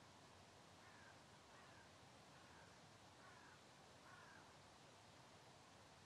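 Near silence over a faint hiss, with a series of about five or six faint, short bird calls under a second apart, from about a second in until about four and a half seconds.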